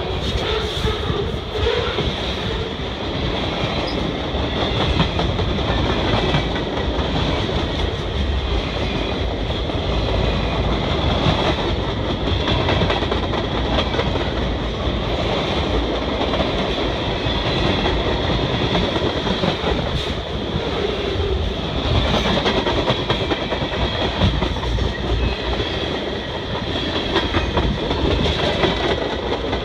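Cars of a mixed freight train rolling past at close range: a steady rumble of steel wheels on rail, with clicks as the wheels cross rail joints.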